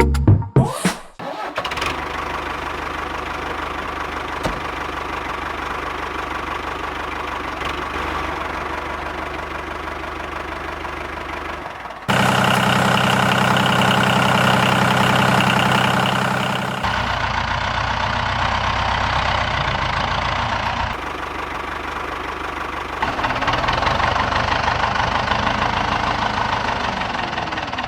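Motor of a miniature crawler truck running steadily with a machine hum and buzz, changing abruptly in pitch and loudness several times, louder from about twelve seconds in.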